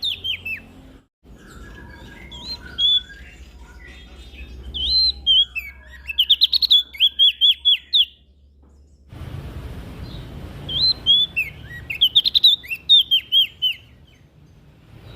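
Prenjak daun (leaf warbler) singing in rapid bursts of quick, high, sharply rising and falling chirps, phrase after phrase. There are two abrupt breaks, about a second in and about two-thirds of the way through.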